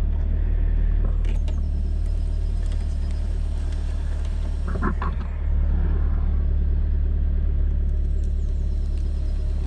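2003 Saab 9-5 Aero's turbocharged 2.3-litre four-cylinder engine idling steadily with a low rumble. A few light clicks come about a second in.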